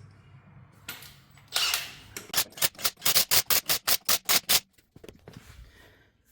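Lug nuts being run onto a truck wheel: a short whir, then a run of about ten loud, sharp, evenly spaced metallic clacks, about four a second, that stops suddenly.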